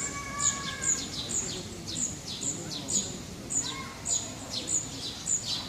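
Park songbirds singing: a short, high note that falls in pitch, repeated about twice a second, with a brief steady whistled tone near the start.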